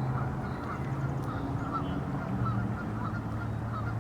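A flock of Canada geese honking at a distance, many short calls overlapping, over a steady low hum.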